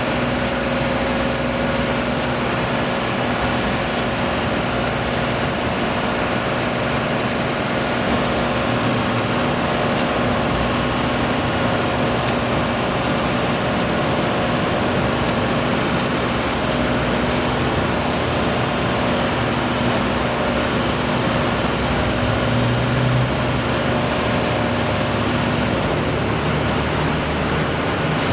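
An engine or machine running steadily with a constant hum over a wash of noise.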